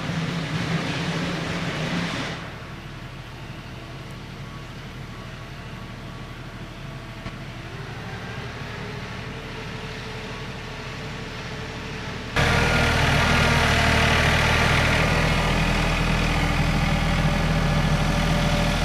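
Engine running steadily, heard across several clips joined by cuts. It drops quieter a couple of seconds in and becomes much louder from about twelve seconds in.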